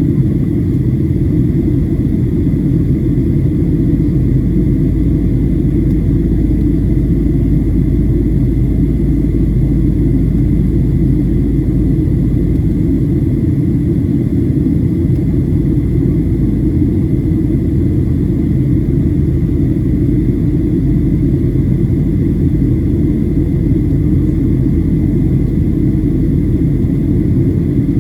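Steady cabin noise inside a Boeing 737-700 in descent: a low rumble of airflow and the CFM56-7B engines, with a faint steady whine above it.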